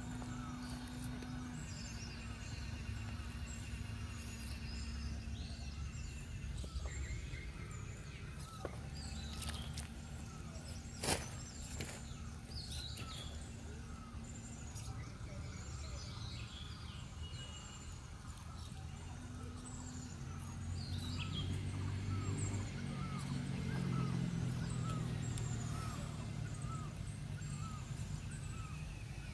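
Birds chirping repeatedly over a low outdoor rumble. A steady low hum starts and stops several times, and there is one sharp click about eleven seconds in.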